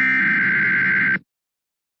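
Emergency Alert System SAME header: a harsh, buzzy digital data burst about a second long that cuts off abruptly, one of the repeated bursts that encode a tornado warning.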